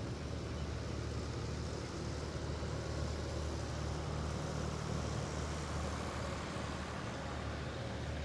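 Antique farm tractor engines running steadily as the tractors drive past, a continuous low engine sound.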